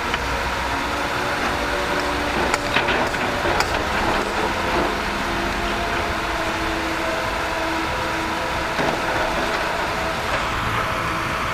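Steady noise of vehicle traffic, with a few sharp clicks about three seconds in.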